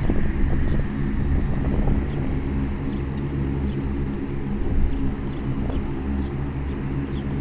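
Bell 407 single-engine turbine helicopter running on the ground, a steady low drone from its rotor and engine with an even, unchanging pitch.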